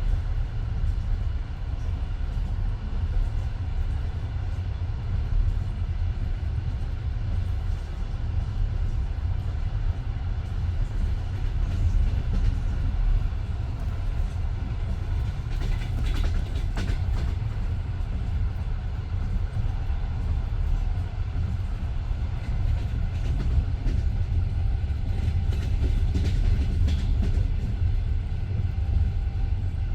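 Passenger train carriage running along the track: a steady low rumble with the clickety-clack of the wheels over the rails, louder clatter coming briefly about halfway through and again near the end.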